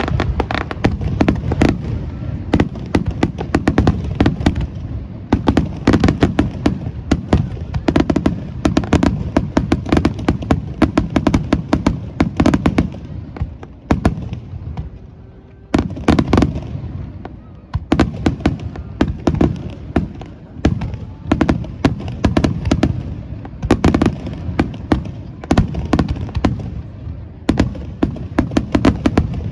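Festival fireworks display: a dense, continuous barrage of aerial shells bursting, rapid bangs and crackles overlapping, with a short lull about fourteen seconds in before a sharp bang starts the barrage again.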